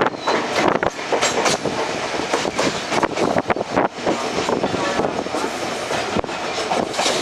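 Passenger train of ICF coaches running along the line, the wheels clattering over rail joints in irregular sharp knocks over a steady rushing noise.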